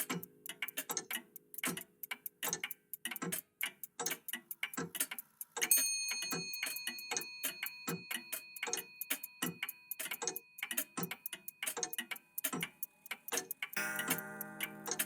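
Several old mechanical clocks ticking at once in overlapping rhythms, a few ticks a second. About six seconds in, a single clock chime strikes and rings out, fading over about five seconds. Near the end, a low sustained chord of musical tones comes in under the ticking.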